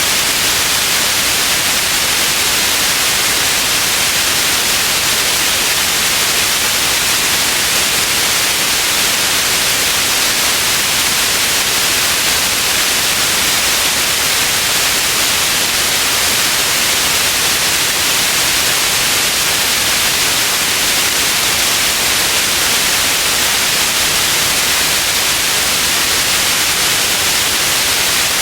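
Steady white noise hiss, even and unchanging, strongest in the upper frequencies.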